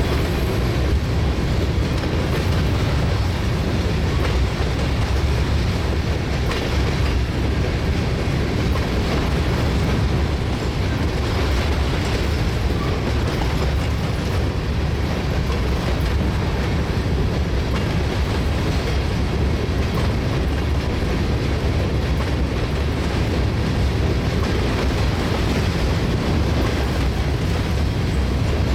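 Norfolk Southern covered hopper cars of a freight train rolling past close by: a steady, loud rumble of steel wheels on the rails.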